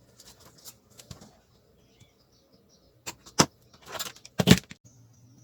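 Clicks, clinks and a few sharper knocks from parts and tools being handled on a workbench, the loudest knocks coming in a cluster past the middle. Near the end a faint steady hum and a faint repeating high chirp set in.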